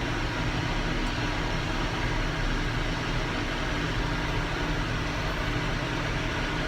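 Tractor engine running steadily under load while baling, heard from inside the cab with a steady hum of machinery and broad noise.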